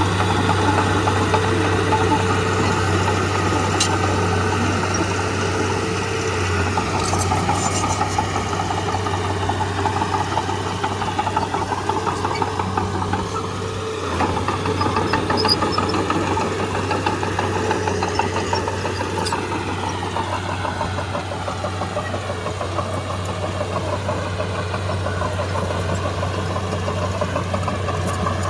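Heavy diesel engine of earthmoving machinery running steadily with a constant low hum, with a few brief high clicks early on.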